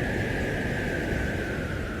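Blizzard wind howling, a high whistle that sinks slowly in pitch over a steady, gusting rumble of wind noise.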